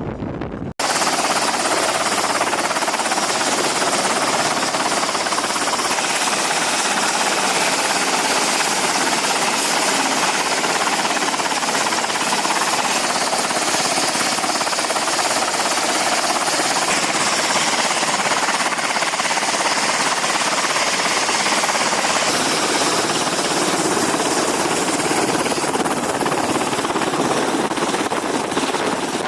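Aircraft turbine engine noise, loud and steady with a constant high-pitched whine, cutting in abruptly about a second in.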